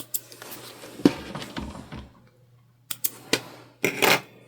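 Handling noises at a sewing worktable: scattered short clicks and knocks with fabric rustling, and a brief quiet gap in the middle.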